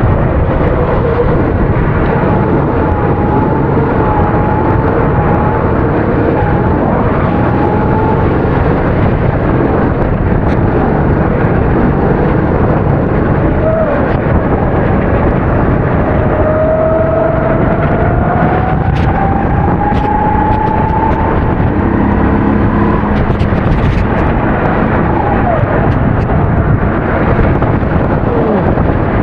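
270cc kart engine running hard at race speed, its pitch climbing steadily on a long stretch and dropping away a few seconds before the end, over a dense, steady rush of noise.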